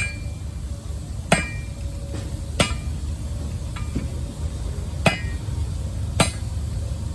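Blacksmith's hammer striking metal on an anvil, single ringing blows about every second and a quarter, one of them lighter, over a steady low rumble.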